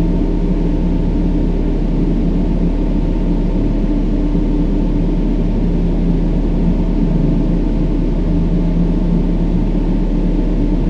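Steady brown noise, a deep even rumbling hiss, with faint low sustained tones layered underneath.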